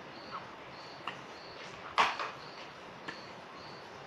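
A foaming body wash pump pressed a few times, with short clicks and one loud squirt of hissing foam about halfway through. Short high chirps repeat about every half second in the background.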